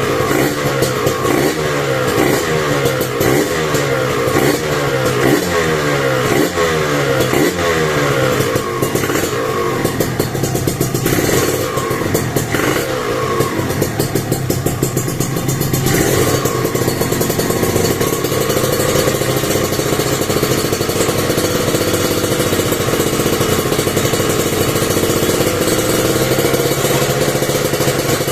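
Kawasaki Ninja RR 150 single-cylinder two-stroke engine breathing through an aluminium DTX51 silencer and expansion chamber. It is blipped over and over in quick revs, a little more than one a second, then settles about halfway through into a steady, even run.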